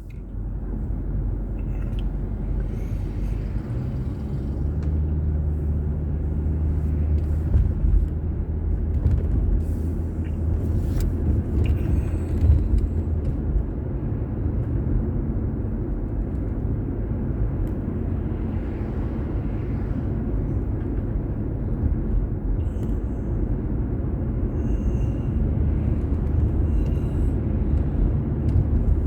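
Car's engine and road noise heard from inside the cabin: a steady low rumble, with a deeper hum swelling from about five to fourteen seconds in.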